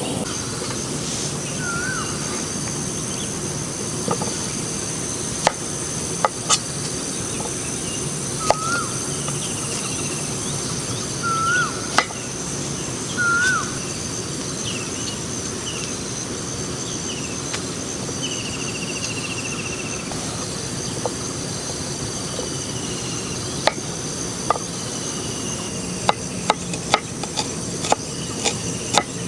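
Outdoor ambience of insects chirring steadily, with a bird's short whistled calls four times in the first half and some higher whistles later. Scattered sharp clicks and taps come throughout and grow more frequent near the end.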